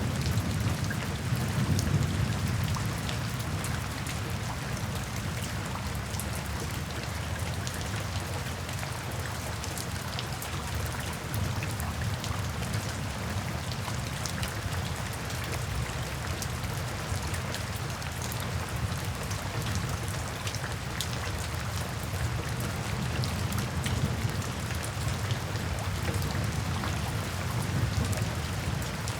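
Steady rain falling into puddles and standing water, with many separate drop splashes. A low rumble of thunder dies away over the first few seconds.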